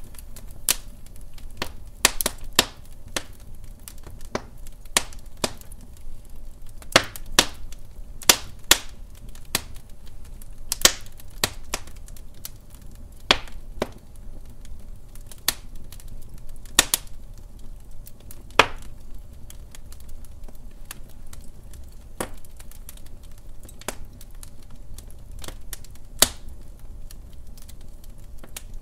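Wood fire in a fireplace crackling, with irregular sharp pops and snaps over a low steady rumble of burning.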